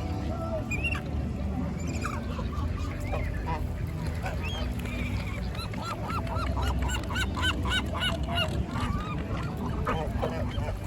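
Geese honking, with a quick run of repeated honks in the middle, over a steady low rumble.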